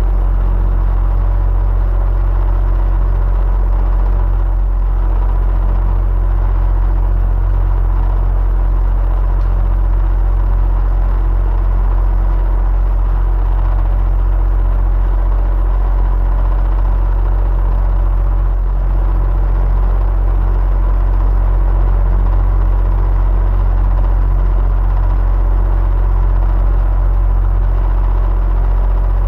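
Electric fan running steadily: a strong low motor hum with a few faint steady whirring tones over even rushing-air noise.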